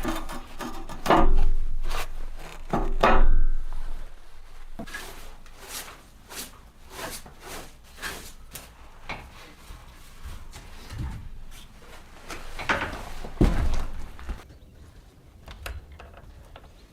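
Irregular knocks, thuds and clattering, as of things being handled and set down: two heavy thuds in the first few seconds, a run of quick light knocks in the middle, and another heavy thud near the end.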